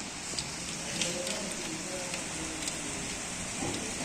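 Heavy rain falling steadily, a dense hiss with scattered sharp drop ticks.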